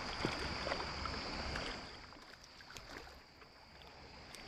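Close shallow creek water splashing and sloshing while a small brown trout is brought in, with a few small knocks; it grows quieter about two seconds in.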